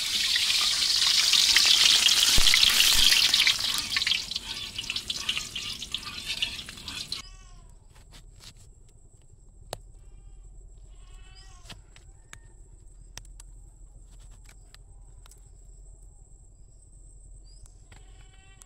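Garlic sizzling loudly in hot oil in a steel wok for about seven seconds, cut off suddenly. After that, quieter sharp clicks of a knife meeting a wooden chopping block as oranges are sliced, with a few short bleats.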